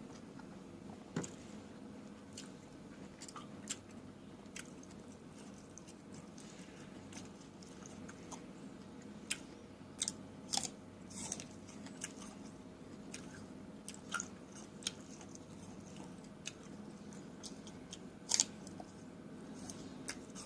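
Close-up eating of fresh fruit: irregular crisp bites and wet chewing clicks over a steady low hum, with a few louder bites about halfway through and near the end.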